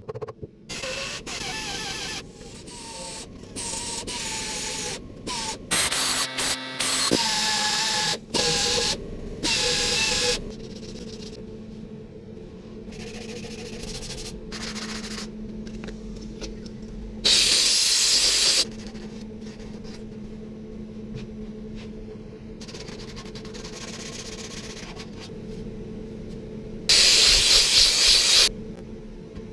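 Metalworking tool noise on a steel fuel tank being welded and rough-ground, in short edited stretches, with two loud hissing bursts of about a second and a half each, the second near the end.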